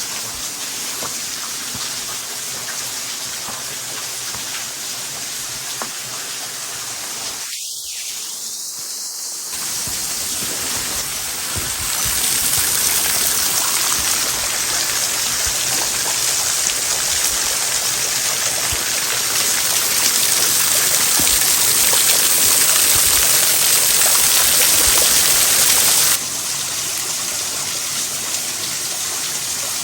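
Steady rushing of water. It grows louder about ten and twelve seconds in and drops suddenly near the end.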